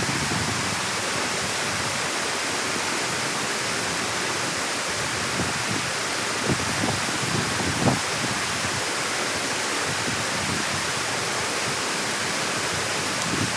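Water rushing steadily, as through a cleared dam or drain opening, with a few brief low knocks or splashes in the middle.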